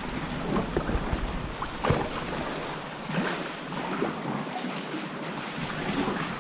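Sea water splashing and slapping around a sea kayak, with wind buffeting the microphone and one sharper splash about two seconds in.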